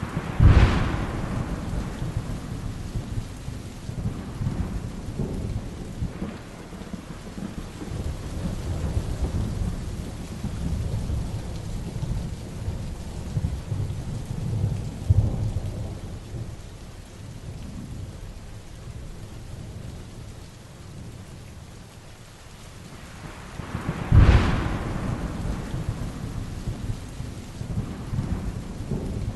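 Heavy rain falling steadily during a thunderstorm, with thunder rumbling low throughout. Two sharp, close thunderclaps stand out as the loudest sounds, one just after the start and another near the end, each rolling off into rumble.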